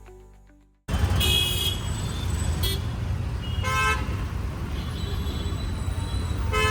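Busy road traffic with a steady low engine rumble and car horns honking several times, the longest blast a little after a second in. Background music fades out just before the traffic sound cuts in.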